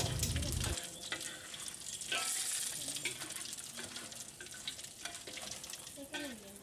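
Food frying in hot oil in a wok, a steady sizzle, while a metal spatula and a slotted ladle stir and scrape through it with scattered clinks against the pan.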